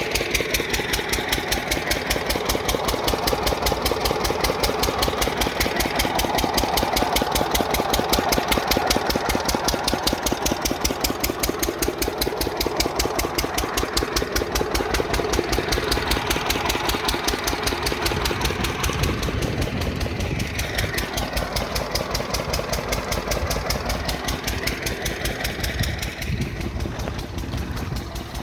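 Lister 6 hp single-cylinder diesel engine driving a water pump set, running steadily with an even, rapid chugging beat.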